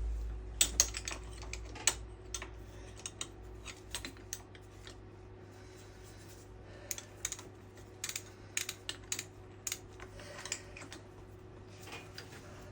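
Irregular sharp clicks and taps of hand tools and small metal engine parts being handled during cylinder-head reassembly, over a low steady hum.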